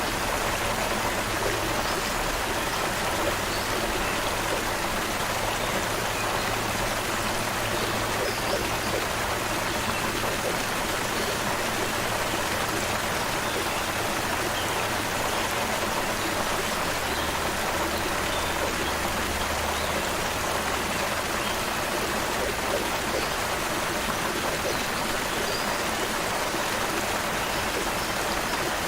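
Stream water running steadily over rocks, an even rushing and babbling, with a few faint bird chirps now and then.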